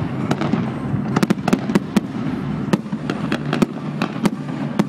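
Fireworks display: an irregular string of sharp bangs, about three a second, over a continuous rumble of further explosions.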